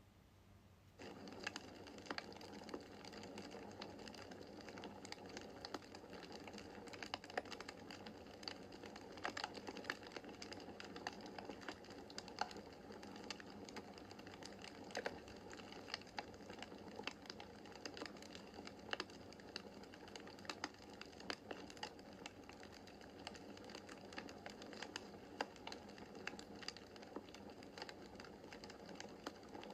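Wood fire crackling in a fireplace: a steady soft hiss with frequent sharp pops and snaps, starting abruptly about a second in.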